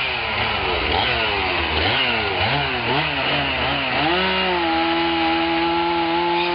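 Chainsaw engine revving up and down about twice a second, then rising about four seconds in and holding at a steady high speed.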